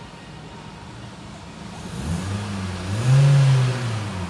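Hyundai i40's 2.0-litre four-cylinder engine, heard from inside the cabin, revved once in park. It idles low at first, then about halfway through the pitch climbs quickly, holds near its loudest for under a second and drops back toward idle near the end.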